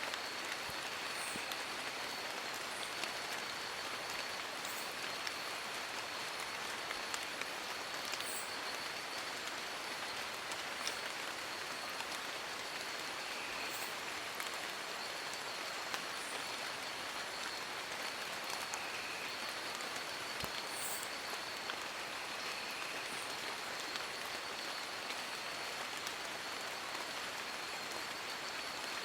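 Steady rain pattering on forest leaves, an even hiss at a constant level. A faint steady high tone runs underneath, with a few brief high chirps here and there.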